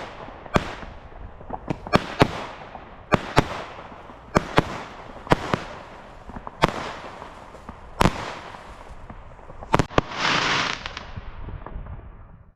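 A consumer firework battery (cake) firing shot after shot, sharp bangs about one to two a second, each trailing off. Near the end comes a denser rushing burst lasting about a second before the sound cuts off.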